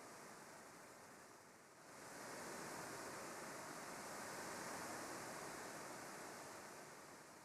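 Faint, even rushing noise that dips about two seconds in, then swells again and eases off near the end.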